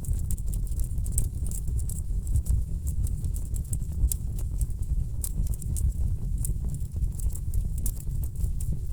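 Wood fire crackling in a fireplace: frequent irregular sharp pops and snaps over a steady low rumble of burning logs.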